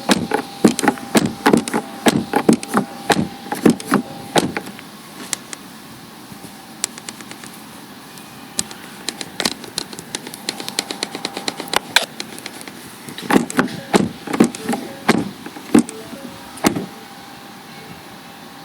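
Car door window glass creaking against its seals as the door and glass are worked: a fast run of short squeaks for about four seconds, then scattered single ones, then another cluster of squeaks later on.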